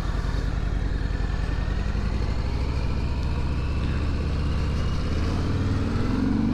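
2021 Harley-Davidson Sport Glide's 107-cubic-inch Milwaukee-Eight V-twin running under way, its note rising and getting a little louder near the end as the bike pulls away.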